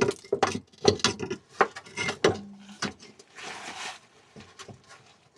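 Irregular clicks, knocks and light clatter of car parts and hand tools being handled during fuel-tank reassembly, with a short rushing hiss about three and a half seconds in.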